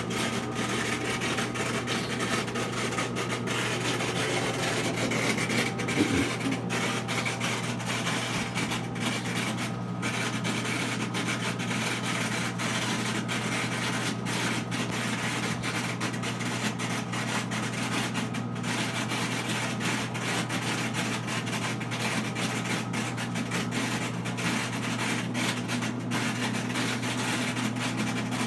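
Whirlpool front-load washing machine running with a steady low hum and a continuous rubbing, scraping noise, the abnormal noise it makes during spin and drain. There is a single brief knock about six seconds in.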